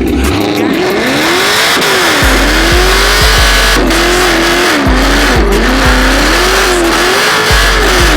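A muscle car engine revving over and over, its pitch rising and falling in waves, over music with a heavy bass line.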